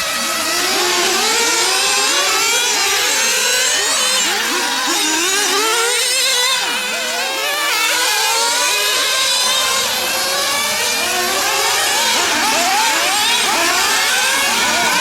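Several 1/8-scale RC cars' small nitro engines running hard around a track, their high-pitched notes rising and falling over and over as they accelerate, brake and pass, overlapping one another.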